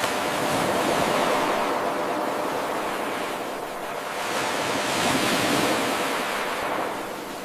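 Ocean waves washing in: a rushing hiss of surf that swells twice, easing off in between. It begins abruptly where the looped eight-second wave recording restarts.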